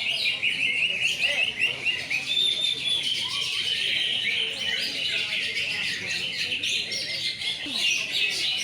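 Many caged cucak ijo (greater green leafbirds) singing at once: a dense, unbroken mass of overlapping chirps, whistles and trills.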